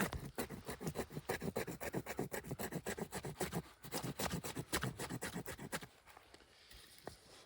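A knife scraping in quick repeated strokes, about five a second, for around six seconds, then stopping, as in bushcraft fire preparation.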